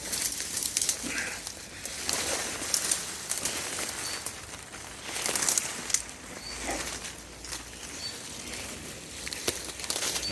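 Footsteps pushing through thorny undergrowth, with brambles and twigs rustling and crackling irregularly. A few short, high bird chirps come through it.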